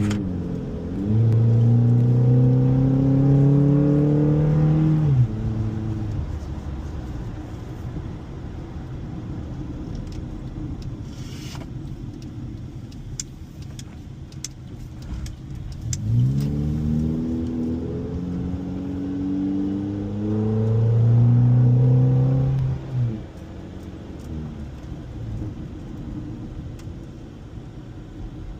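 Car engine accelerating hard twice, its pitch climbing, dropping at an upshift, then climbing again before the throttle is lifted. Between and after these pulls it runs quieter while cruising, with a few faint clicks in the middle.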